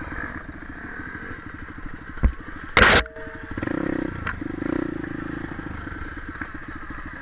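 A dirt bike engine running, with the throttle swelling briefly a couple of times. About three seconds in there is a loud, short knock or bang.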